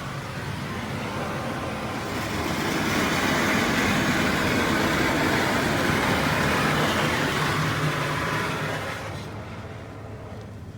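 A Belanger FreeStyler automatic car wash gantry working over the car, heard as a loud rushing noise that builds about two seconds in, holds, and fades away near the end.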